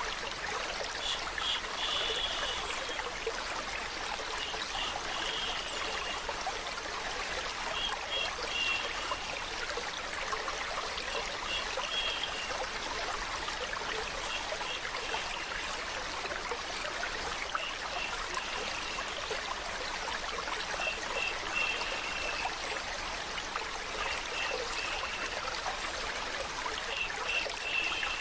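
A stream running and trickling steadily, an even rush of water, with little clusters of short high notes rising out of it every couple of seconds.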